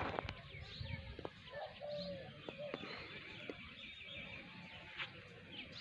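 Small birds chirping steadily, with a dove cooing a few low notes about two seconds in.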